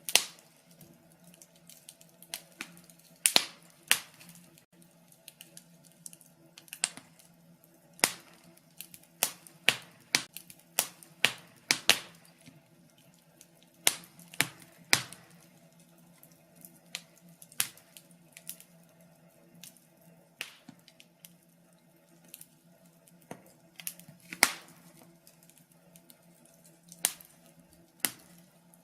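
Wood fire crackling: irregular sharp pops and snaps at uneven spacing, a few much louder than the rest, over a faint steady hum.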